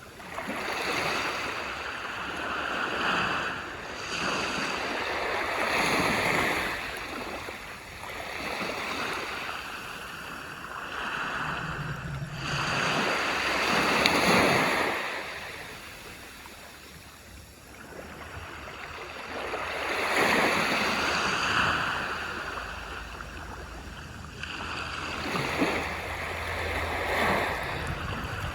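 Waves washing onto a beach, the surf swelling and falling away every few seconds, with the loudest surge near the middle.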